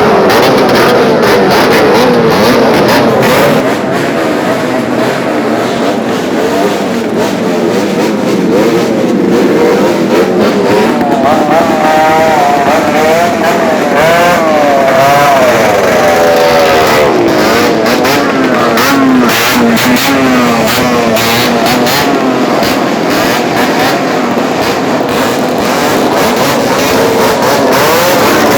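Several motorcycles with loud open exhausts revving at once, their overlapping engine notes rising and falling over a dense crackle. The revving is heaviest around the middle.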